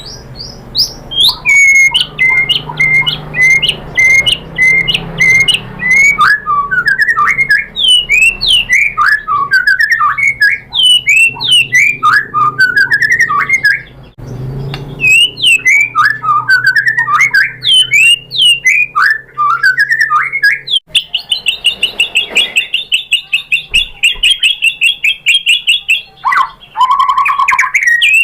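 White-rumped shama singing: a long, varied run of loud whistled notes and chattering phrases, starting with a string of repeated short notes and breaking into a long, fast, high trill about three quarters of the way through.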